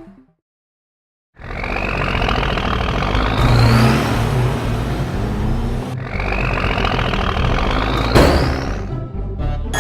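Vehicle engine sound effect revving up twice, each time with a whine that rises in pitch, then a sharp hit near the end. It comes in after about a second of silence.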